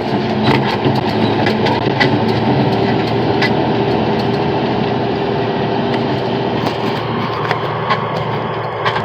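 Haul truck running steadily under way, with sharp rattles and knocks from the truck breaking through now and then.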